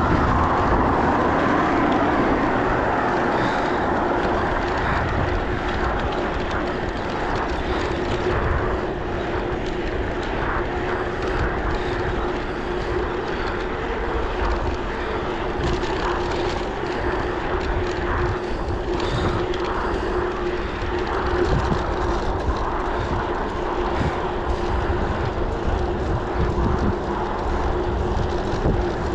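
Steady rush of wind and road noise on a moving bicycle, with a low, steady hum under it.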